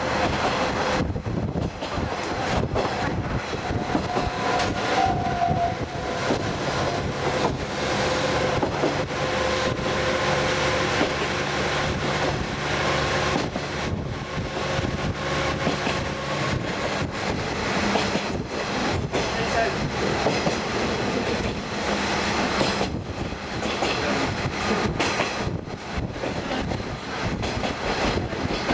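Diesel trolley train running along the line, heard from aboard the open-window car: a steady noise of wheels and wind with repeated clicks of the wheels over rail joints, and a low engine drone for about ten seconds in the middle.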